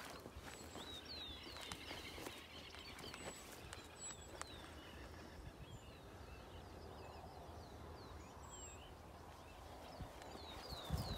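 Small birds chirping faintly, many short falling notes scattered throughout, over a low steady outdoor background noise.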